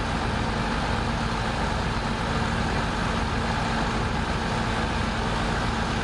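Heavy earthmoving machine's diesel engine running steadily at an even, unchanging pace, like an idle.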